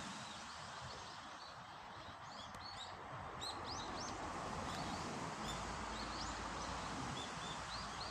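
Several small birds giving short, high chirps, scattered irregularly and sometimes overlapping, over a steady background hiss.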